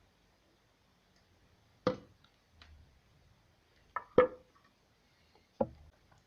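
Sharp knocks of wood on wood: four in all, a single one about two seconds in, a quick pair around four seconds in with the second the loudest, and a last one near the end, the louder ones ringing briefly.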